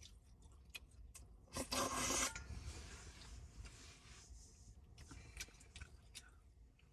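Handling noises: scattered light clicks and one loud scraping rustle, under a second long, about two seconds in.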